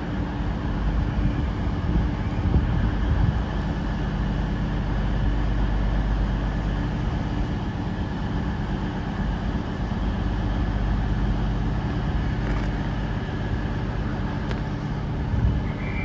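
Train running steadily at a station platform: a constant low mechanical drone with a steady hum.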